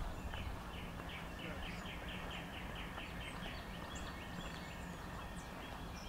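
A songbird sings a fast run of about fifteen repeated notes, roughly five a second, lasting about three seconds, then gives a few scattered chirps. A low steady rumble runs underneath.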